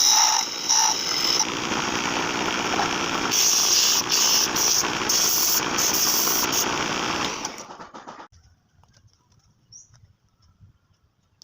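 Wood lathe running as a wooden workpiece is turned, a steady noisy whirr that dies away about eight seconds in, leaving near silence with a few faint high chirps.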